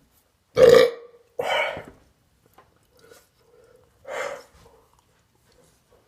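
A man belching, three times: a loud burp about half a second in, a second one right after it, and a shorter third about four seconds in.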